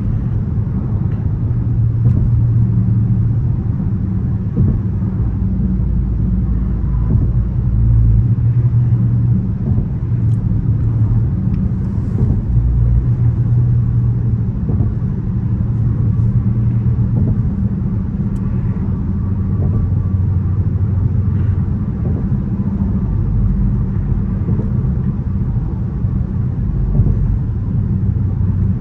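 Dodge Charger R/T's 5.7-litre HEMI V8 running under way, a steady low drone mixed with road rumble, its pitch shifting a little now and then.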